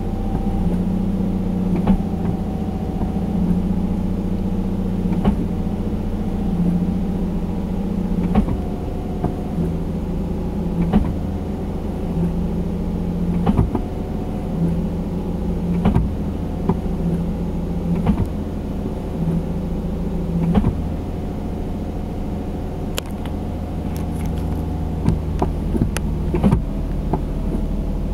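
Nissan 350Z's VQ35HR 3.5-litre V6 idling steadily while warming up. The clutch pedal is pressed and released over and over, so a low tone in the idle comes and goes, with a short click every two to three seconds.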